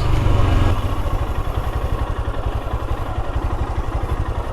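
Car engine running at low revs on a rough dirt trail, with a rapid, even pulsing that sets in about a second in.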